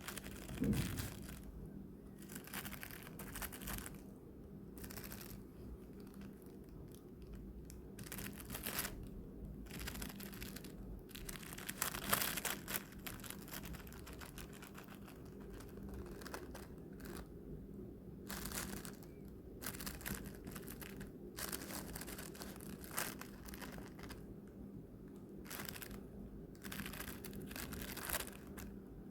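Irregular crinkling and tearing noises in uneven bursts, over a faint steady low hum.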